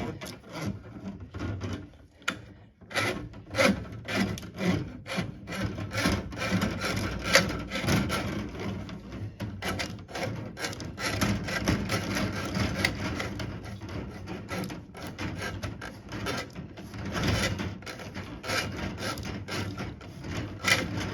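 Plumbing snake being fed into a clogged central vacuum line through the wall inlet, its cable rasping and scraping against the pipe and fitting in repeated strokes, about one or two a second.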